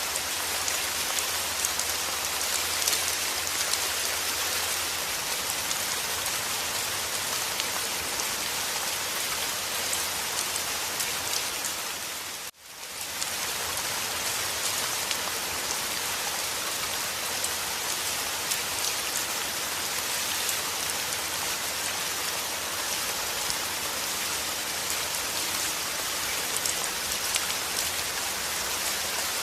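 Steady rain falling, a dense patter of drops hitting a surface. About twelve seconds in it cuts out almost to silence for a moment, then fades back in.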